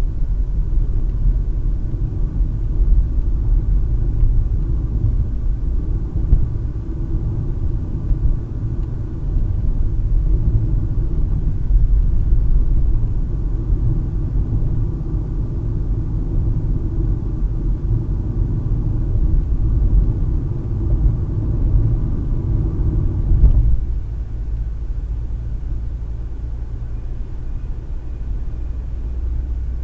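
Road and engine rumble of a car driving, heard inside the cabin through a dash cam's microphone. The rumble drops to a lower, steadier level about three quarters of the way through.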